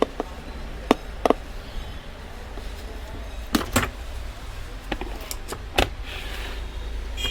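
Scattered sharp clicks and knocks, about six in seven seconds, from the parts of an electric kettle being handled, over a steady low hum.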